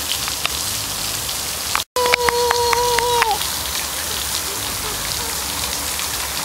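Steady rain pattering on the ground, with scattered drop ticks. The sound cuts out for an instant about two seconds in, then a steady high tone with a string of clicks sounds for about a second and a half, dipping slightly as it ends.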